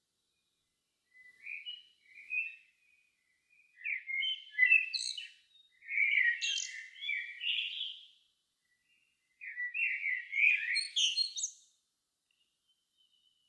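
A songbird singing at dusk: four separate phrases of warbling and twittering, each a second or two long, with short pauses between them. The loudest phrases come around the middle and near the end.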